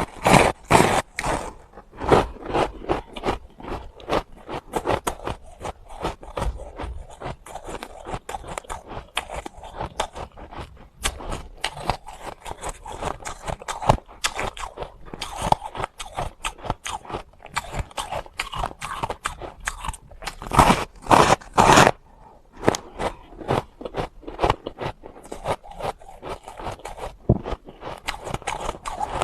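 Close-miked crunching and chewing of hard ice: a dense, uneven stream of sharp crunches and grinding scrapes, with the loudest bites about two-thirds of the way through.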